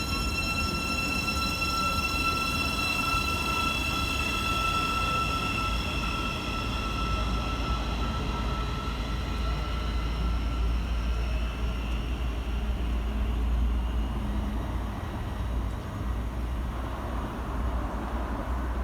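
Train running through the station: a steady high whine fades away over the first ten seconds or so, over a continuous low rumble.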